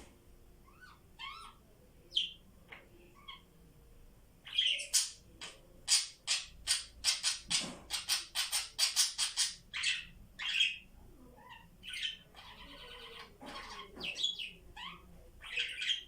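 Pet parrots calling: scattered short chirps, then a fast run of short, sharp squawks at about three or four a second from about four to eleven seconds in, followed by a few more scattered calls.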